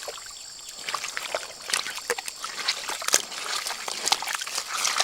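Water trickling and sloshing, with irregular small splashes.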